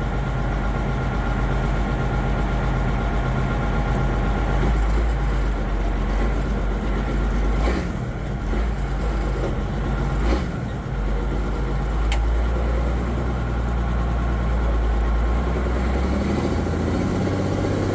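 Multifuel inline-six diesel engine of an M35A2 deuce-and-a-half military truck running under way, heard from inside the cab as a loud, steady low drone. The engine note dips briefly twice with a clunk about eight and ten seconds in, and shifts in pitch near the end.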